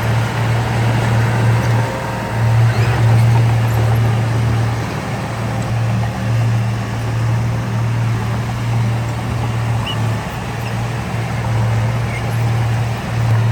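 Heavy construction machine's diesel engine running with a steady low drone that dips briefly a few times.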